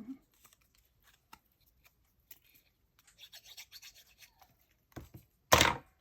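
Paper and craft pieces handled on a work table: faint rustling and small clicks, then one short, loud rub or scrape about five and a half seconds in.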